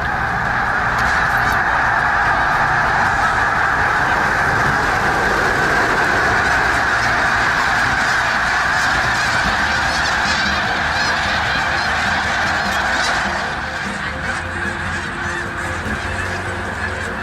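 A huge flock of birds calling, many calls overlapping into one dense, steady din that eases a little about thirteen seconds in.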